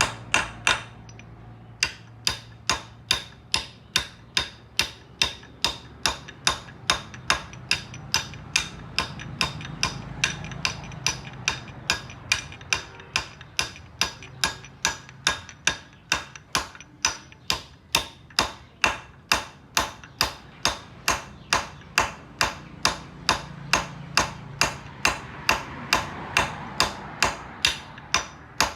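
A steady run of sharp knocks, about two and a half a second, like repeated hammer blows, starting about two seconds in, over a faint low hum.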